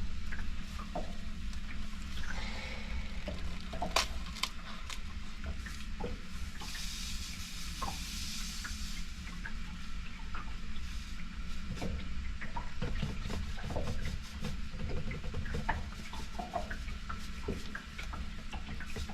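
Scattered small clicks and knocks of things being handled over a steady low hum, with a hiss lasting a couple of seconds near the middle.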